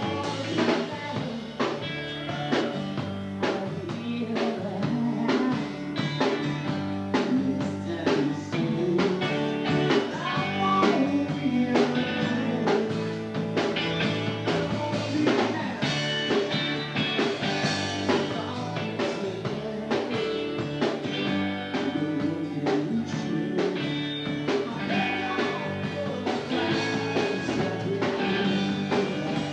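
Rock music with electric guitar, bass and drums playing at a steady beat.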